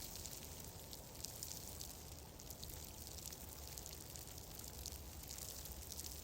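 Wood fire crackling in a fireplace: a dense stream of small pops and ticks over a low steady rumble.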